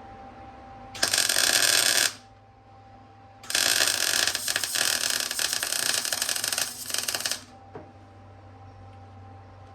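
Arc welding on steel fork legs: two runs of crackling arc, a short one of about a second, then a longer one of about four seconds that sputters near its end.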